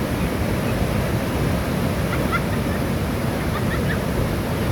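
Steady rushing roar of a waterfall, with a few faint short chirps about two seconds in and again near the end.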